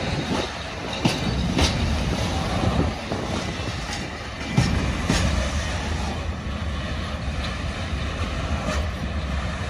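Container freight train's wagons rolling past, a steady rumble of steel wheels on the rails broken by several sharp clacks.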